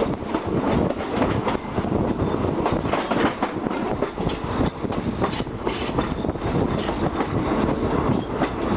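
Passenger train running, its wheels clattering steadily over the rail joints, heard from an open carriage window, with a few brief faint wheel squeals.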